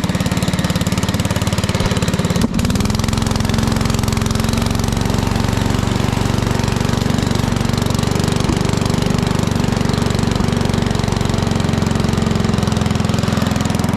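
Small engine of a ride-on machine running steadily under way. About two and a half seconds in there is a brief break, after which the engine note settles slightly higher.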